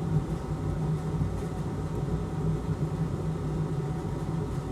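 Steady low machine hum, like a bench fan or extractor running, with no change or distinct events.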